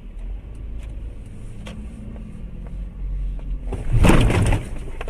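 Car road and engine rumble, then a loud crash impact about four seconds in, lasting under a second.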